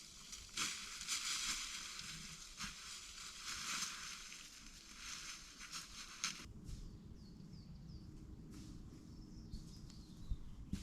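Crunching and rustling of dry forest material, dense and scratchy, for about six seconds. It then stops abruptly, leaving quieter outdoor background with a few short high chirps.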